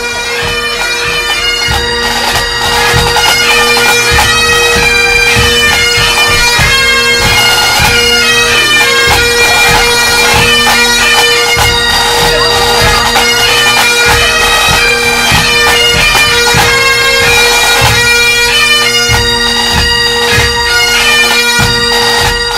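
Bagpipe music: a steady drone under a fast, ornamented melody, with drum strikes underneath.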